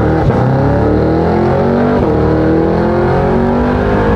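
Cadillac CT5-V Blackwing's supercharged 6.2-litre V8 accelerating hard through the gears, heard from inside the cabin. The engine pitch climbs steadily, drops at an upshift at the start and again about two seconds in, then climbs again.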